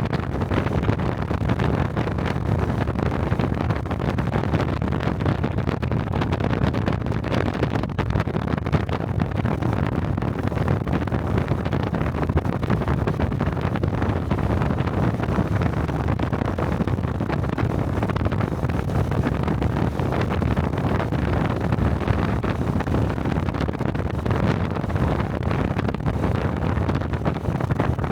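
Honda Cub 125 motorcycle's single-cylinder engine and exhaust running steadily on the move, with wind rushing over a helmet-mounted microphone.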